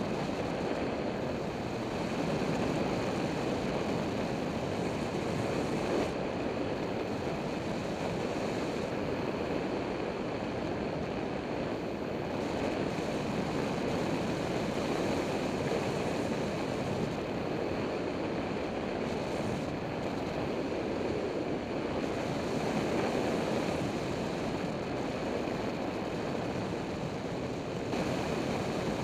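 Steady wind rushing over the microphone, a continuous even noise with no clear engine tone.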